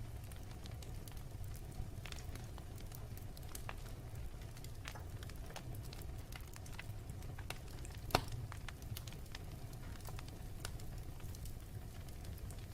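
Wood fire burning with a steady low rumble and scattered sharp crackles, one louder pop about eight seconds in.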